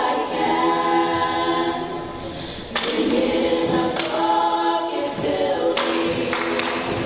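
Choir singing, voices holding long notes, with a few sharp accents along the way.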